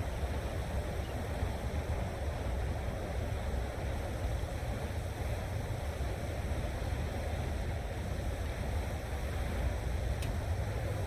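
Steady low rumble of wind on the microphone over a light outdoor hiss, with a small click about ten seconds in.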